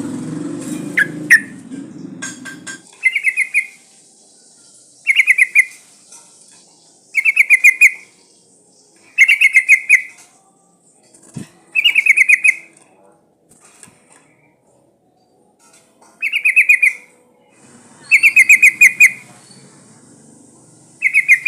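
Yellow-vented bulbul (trucukan) giving short, fast chattering trills, one about every two seconds, a call used as a lure and said to be a female calling a male. A low rumble sits under the first few seconds and again near the end.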